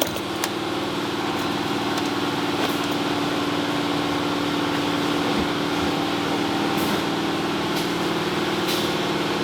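A steady, even machine hum that holds one pitch throughout, with a few faint clicks over it.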